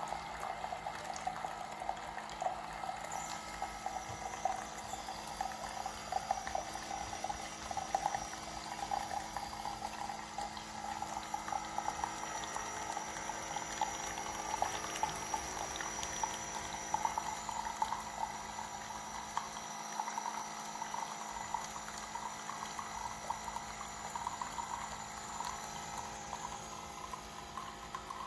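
Keurig K-Mini single-serve coffee maker brewing: hot liquid streaming steadily into the cup with a fine sputtering crackle over a faint machine hum.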